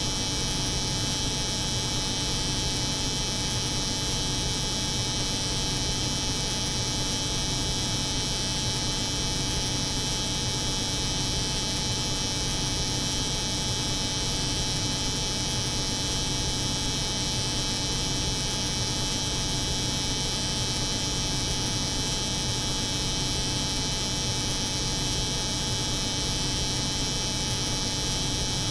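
Layered steady sound of a cold room's refrigeration hum and an electric hair clipper running, with an even hiss on top. The sound does not change.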